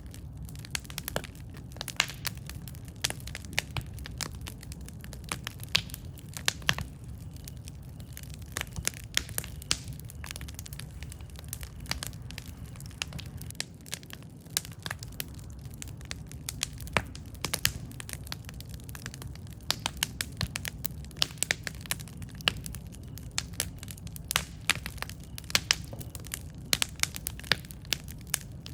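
Campfire burning: wood crackling and popping in many irregular sharp snaps over a steady low rumble of the flames.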